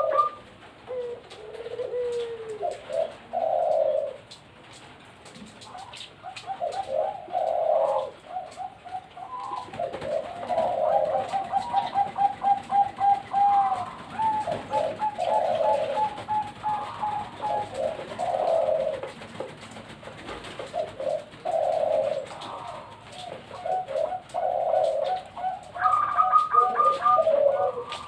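Perkutut (zebra doves) cooing over and over: low coo phrases broken by fast, evenly pulsed rolling trills, with calls sometimes overlapping.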